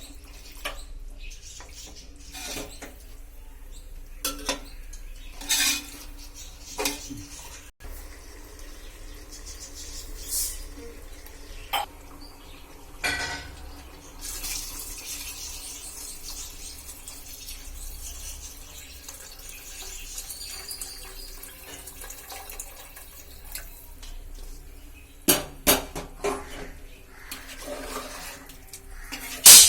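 Metal kitchen utensils and cookware clinking and knocking at irregular intervals, with a stretch of hiss in the middle; the last knock near the end is the loudest.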